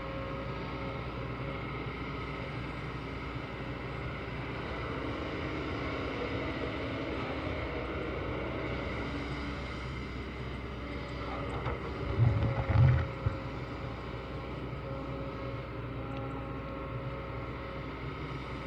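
Kobelco SK200 excavator's diesel engine running steadily, with a brief louder low rumble about two-thirds of the way through.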